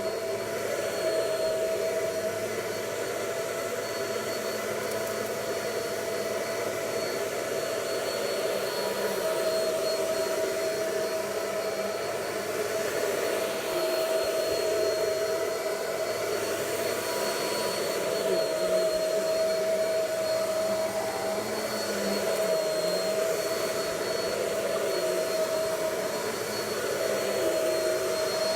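Vacuum cleaner running steadily on carpet, its motor whine dipping slightly in pitch now and then.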